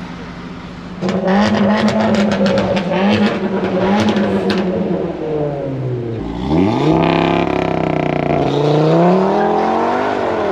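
A car's engine revving hard: it gets much louder about a second in, with a crackling exhaust for a few seconds, then the engine note drops and climbs again as the car accelerates.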